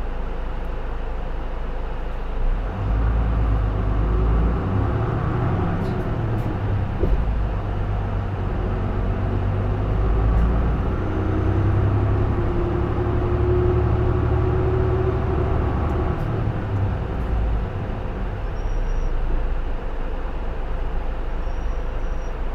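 Isuzu Erga (J-Bus PKG-LV234L2) six-cylinder diesel city bus heard from inside the cabin, its engine pulling hard under acceleration from about two seconds in, with a rising whine in the middle. The engine eases off after about seventeen seconds.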